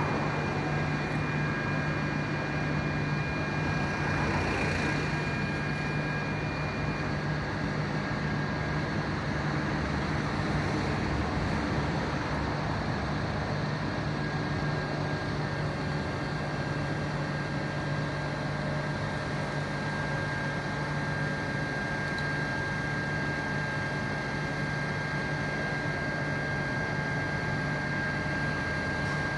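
Steady vehicle engine hum with traffic noise, holding even throughout.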